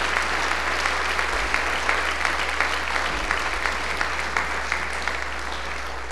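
Audience applauding, many hands clapping in a steady dense patter that slowly fades.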